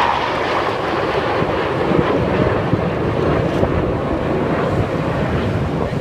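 Steady jet noise from BAE Hawk jets of the Red Arrows flying their display, mixed with wind buffeting the microphone.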